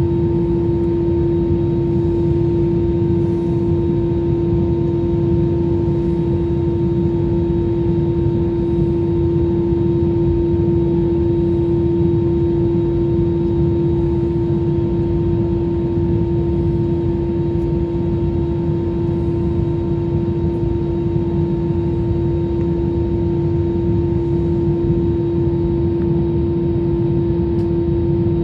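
Jet airliner cabin noise in flight: a steady, loud engine hum with a deep rushing noise beneath it, unchanging throughout.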